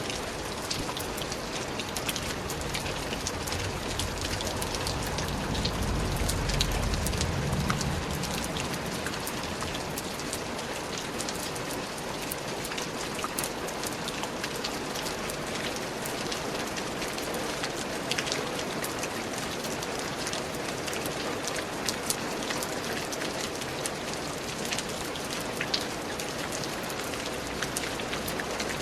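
Steady rain falling, with many separate drops striking close by throughout. A low rumble swells and fades between about four and eight seconds in.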